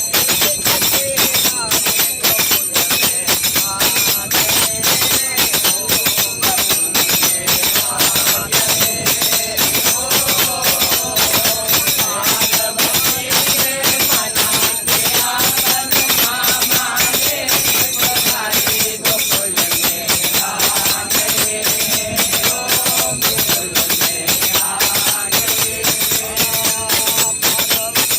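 People singing together to a steady fast rhythm of jingling hand percussion, like tambourine or small cymbals.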